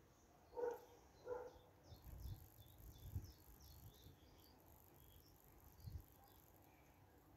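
Faint birdsong: two short low notes about a second in, then a run of quick high falling chirps, with a few low thumps.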